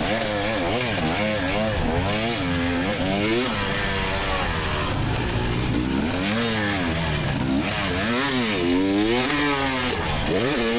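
2024 GasGas EX300 two-stroke engine revving up and down over and over, its pitch rising and falling every second or so as the throttle is opened and closed.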